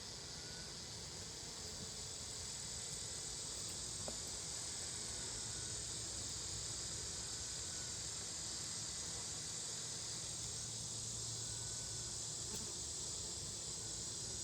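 Steady buzzing of an open honeybee hive under a high, even hiss that holds unchanged throughout, with a faint click about four seconds in.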